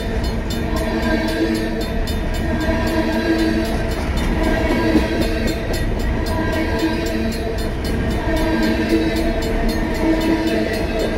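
Freight cars of a Union Pacific manifest train roll steadily past, their wheels rumbling and clattering on the rails. Over this the railroad crossing bells ring on in rapid, evenly spaced strokes.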